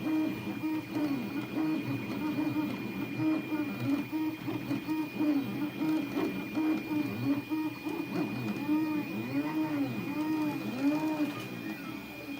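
Anet A8 3D printer's stepper motors whining in quick rising-and-falling pitch sweeps as the print head speeds up and slows down, over a steady high-pitched whine.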